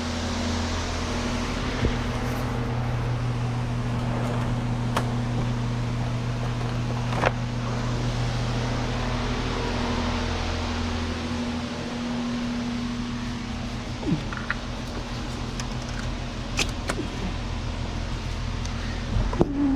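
Steady low mechanical hum of a running machine, part of it dropping out about halfway, with a few sharp clicks and taps from hands working the spark plug's ignition boot loose.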